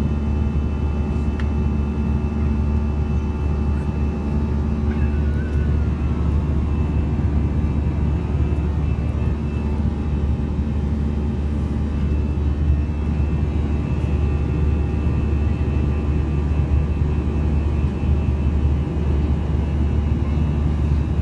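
Steady drone of an airliner's jet engines and rushing air, heard from inside the passenger cabin in flight, deep and unbroken.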